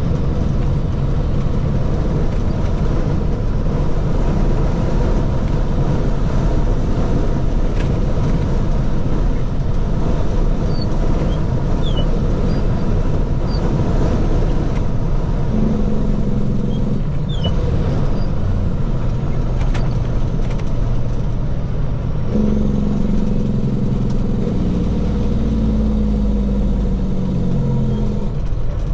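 Diesel engine of a water truck running as it drives, over steady road noise. The engine note changes about halfway through and again at about three-quarters of the way.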